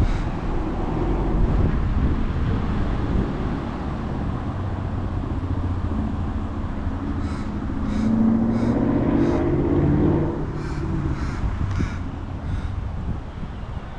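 Wind rushing over the microphone of a moving bicycle, with a vehicle passing around eight to ten seconds in, while a crow caws about nine times in quick succession over the second half.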